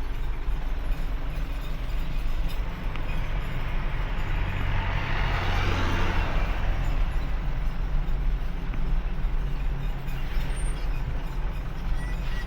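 Truck engine running steadily with a low rumble. About five seconds in, a rushing noise swells and fades away.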